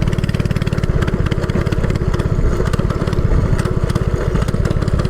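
Mini bike's small engine running steadily under way, a fast, even putter of firing pulses.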